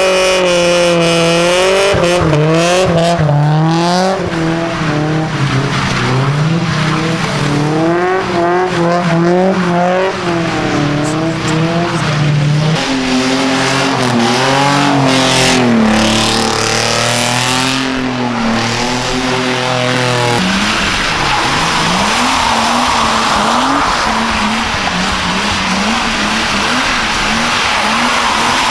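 Car doing a one-wheel burnout: the engine revs up and down over and over at high rpm while a spinning tyre squeals. About twenty seconds in, the revs drop lower and steadier while the tyre squeal carries on.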